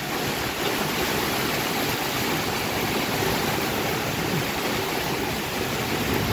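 Heavy rain pouring steadily, with strong wind blowing through the trees and banana plants.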